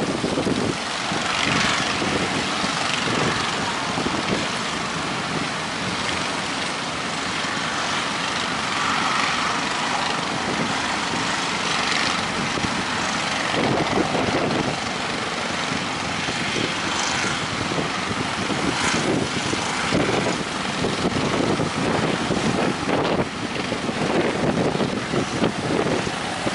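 Strong wind buffeting the microphone, a steady rushing noise broken by irregular gusts.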